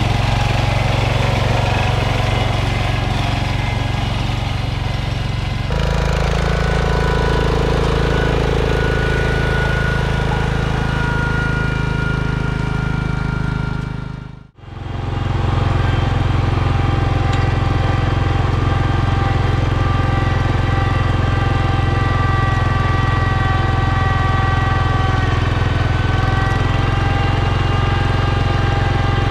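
Small garden tractor engines running steadily under load. The sound changes abruptly about six seconds in and drops out briefly about halfway through.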